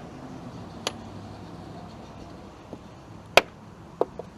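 Sharp clicks as the air filter housing of a Subaru Forester is closed and latched: a light one about a second in, the loudest about three and a half seconds in, then two smaller ones near the end, over a low steady hum.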